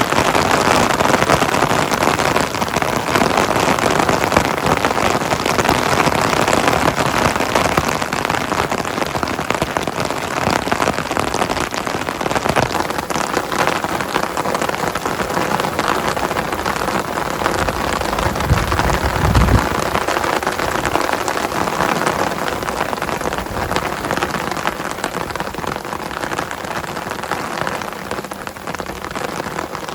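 Heavy rain falling steadily, a dense patter of many separate drops, a little heavier in the first third. A brief low rumble comes about two-thirds of the way through.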